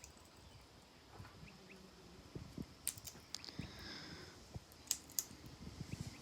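A parrot cracking and husking seeds with its beak: a few sharp cracks and small clicks, with faint high calls between them.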